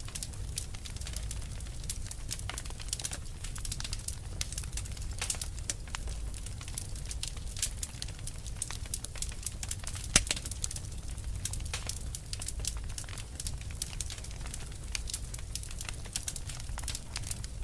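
Fire crackling: a dense, irregular run of small pops and snaps over a low steady rumble, with one sharper, louder pop about ten seconds in.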